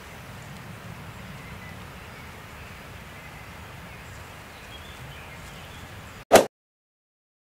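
Steady forest ambience with a low rumble and faint bird chirps, cut by one loud, short whoosh-like burst about six seconds in, after which the sound drops to dead silence.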